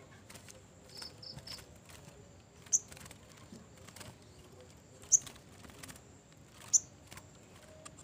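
Small caged bird giving short, high single chirps, three louder ones spaced a couple of seconds apart, after a soft quick run of three about a second in, among faint light clicks.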